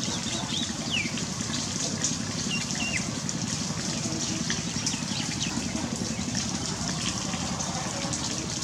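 Steady rain with scattered drips, and a few short, high chirping bird calls in the first three seconds.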